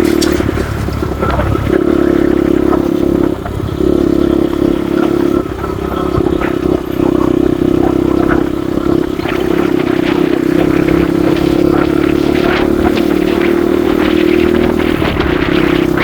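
Motorcycle engine running while under way, its note dropping briefly a few times, with scattered rattles and scrapes over it.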